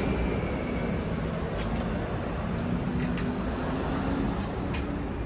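City street traffic noise: a steady rumble with a faint engine hum, broken by a few sharp clicks.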